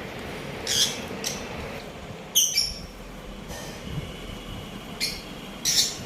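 Budgerigars giving several short, sharp chirps and squawks. The loudest come about two and a half seconds in and near the end.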